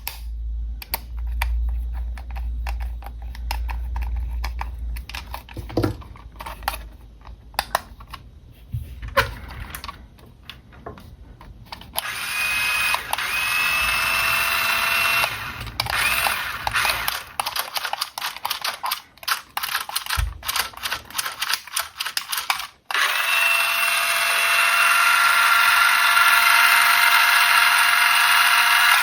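Plastic handling clicks and rustles, then a small electric motor of a 1:20 scale remote-control car whirring. It runs in short spurts about halfway through, then steadily near the end.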